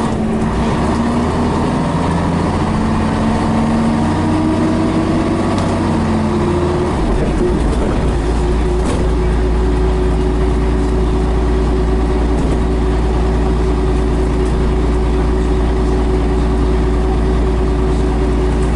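Scania BR111H bus's diesel engine and drivetrain heard on board, pulling with its note slowly rising, then changing about seven seconds in and running steady under a deep rumble.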